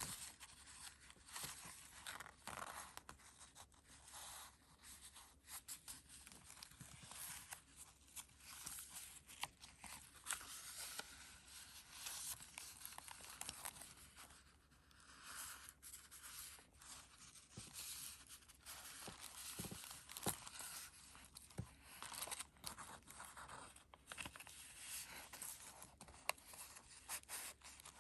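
Pages of a handmade junk journal of antique and vintage papers being turned and handled: soft, close paper rustling and crinkling with many light taps and flaps, a few a little sharper than the rest.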